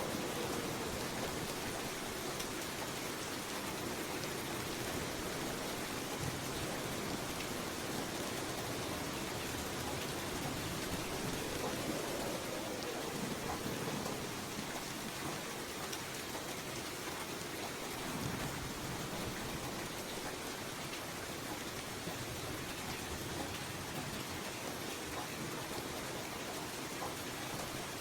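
Steady rain falling, an even hiss of many drops, with a few low rumbling swells that rise and fade.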